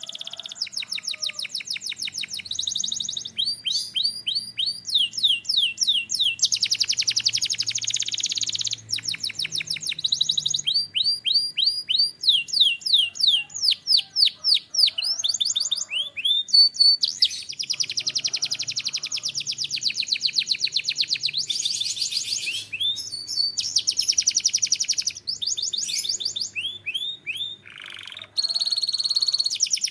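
Domestic canary singing a long, continuous song of rapid trills: quick runs of repeated notes and fast falling sweeps, switching to a new phrase every second or two.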